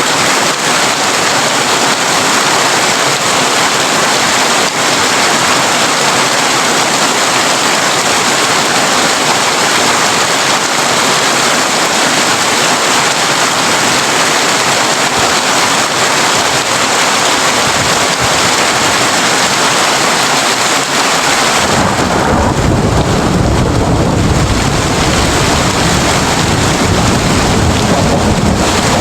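Heavy rain on a tin roof, a steady, dense hiss of drops. About 22 s in, a deep rumble of thunder rises beneath it and goes on rolling.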